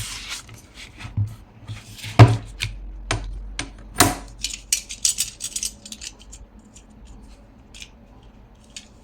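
A metal ruler and craft knife handled on a cutting board: two sharp knocks as they are set down, then the knife scoring through thick cardstock along the ruler in a quick run of short scratches that thin out toward the end.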